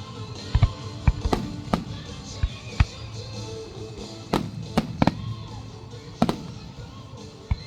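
Fireworks shells bursting in about a dozen sharp, irregularly spaced bangs over music.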